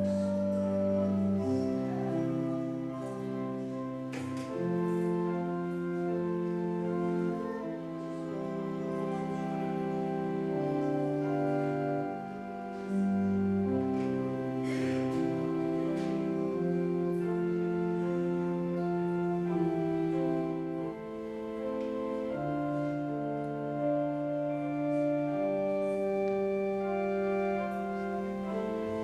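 Organ playing slow, sustained chords that change every second or two, with no singing.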